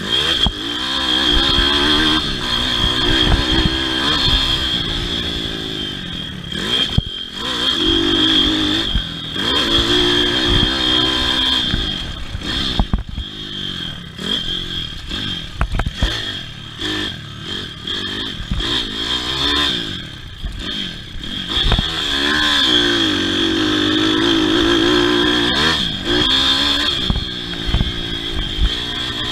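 Pit bike engine racing on a motocross track, revving up and falling back again and again as the rider works the throttle through corners and jumps, with clattering knocks from the bike over the rough ground. The revs drop lower and the engine goes quieter for a while mid-way, then pick up strongly again.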